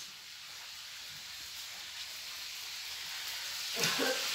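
Catfish frying in hot oil in a pan on a gas stove: a steady sizzle that grows louder toward the end.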